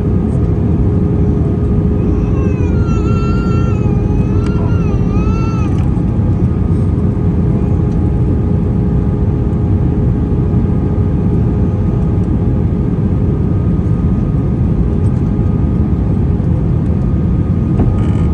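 Steady cabin noise of an Airbus A320, a loud even rumble with a faint steady hum. A brief high, wavering voice-like sound rises over it about two seconds in and stops a few seconds later.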